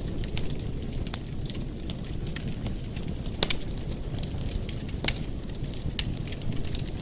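Campfire burning with a steady low rumble and frequent sharp crackles and pops from the wood, two of them louder, about three and a half and five seconds in.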